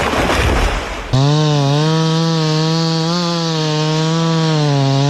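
Chainsaw running at high revs, its pitch wavering slightly, cutting in abruptly about a second in after a brief loud noisy rush.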